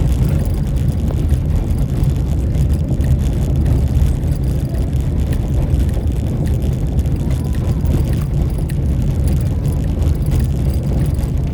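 Vehicle travelling along a road: a steady low engine and road rumble with no breaks.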